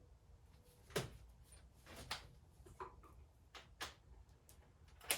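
Scattered sharp clinks and knocks of hand tools and metal parts being handled, coming at irregular intervals about once a second.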